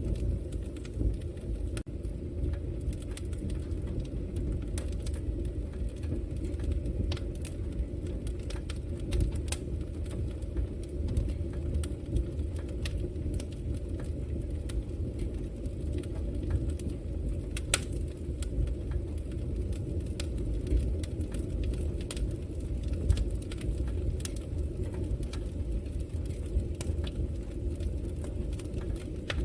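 Fire burning in a fireplace: a steady low rumble with frequent small crackles and pops, one sharper pop about eighteen seconds in.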